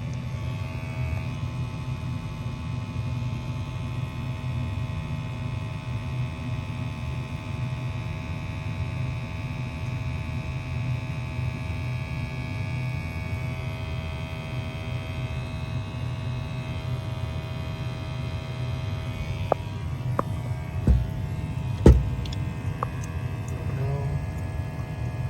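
Gas furnace running with a steady low motor hum. A few sharp knocks come near the end, the loudest two about a second apart.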